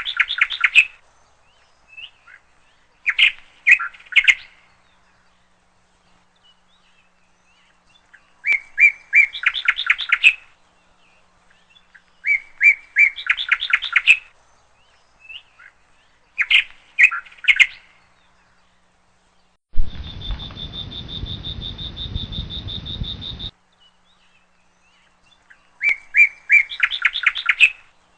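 Siberian chipmunk giving its bird-like chirping call in repeated bouts, each a quick run of sharp chirps, a bout every three to four seconds. Past the middle, a hiss with a steady high tone cuts in for about four seconds.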